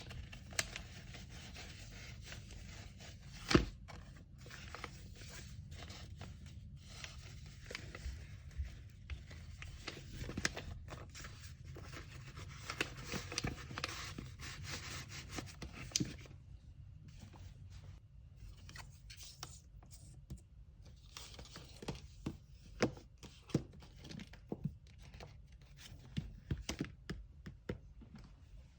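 Hands packing an order with kraft paper and tape: paper rustling and tearing, with many light taps and clicks of items being set down. One sharp knock about three and a half seconds in is the loudest sound.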